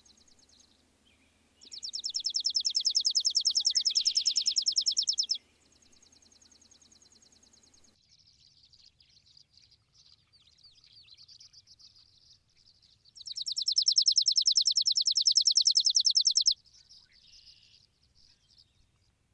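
Birds calling: two loud, very rapid trills of repeated high notes, each lasting about three and a half seconds, swelling and then cutting off abruptly, with fainter scattered chirping between them.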